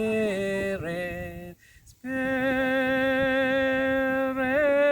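A single unaccompanied voice singing a hymn: a short phrase, a brief break, then one long held note on the word "Spirit", rising a step in pitch near the end.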